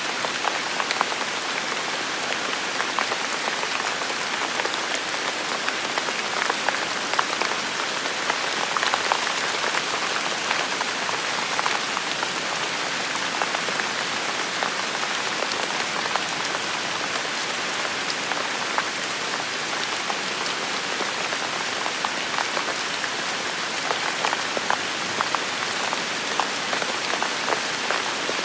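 Heavy rain falling steadily, a dense even hiss with many close drops ticking individually.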